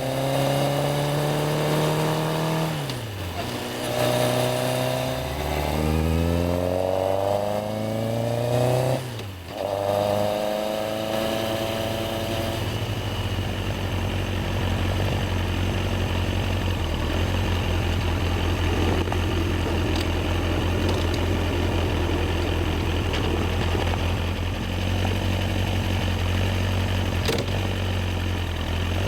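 Yamaha XJR1300's air-cooled inline-four engine on the move: its pitch sinks, then climbs and drops back twice as the rider accelerates and shifts gears, with a brief dip in loudness about nine seconds in. From about twelve seconds in it runs at a steady engine speed.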